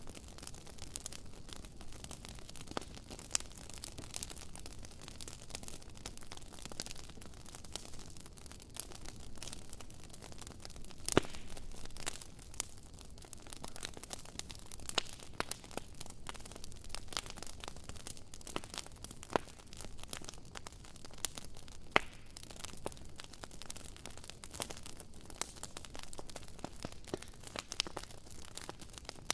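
Wood burning in a campfire, crackling steadily with a dense scatter of small irregular pops and a few sharper, louder pops, about a third of the way through and again about three-quarters of the way.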